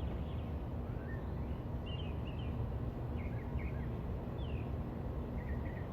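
Several short bird chirps, some of them quick runs of two or three, over a steady low background rumble.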